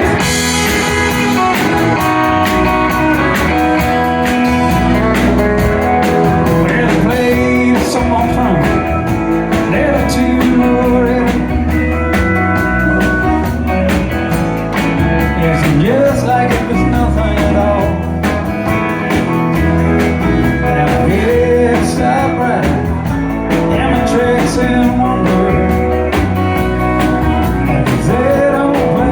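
Live country band playing: guitar with bent, sliding notes over bass and a steady drum beat.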